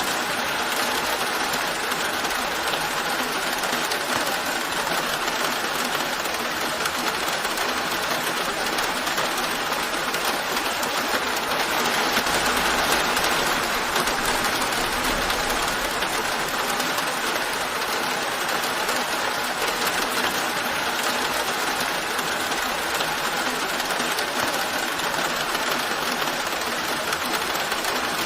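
Steady rain falling, an even hiss that swells slightly midway.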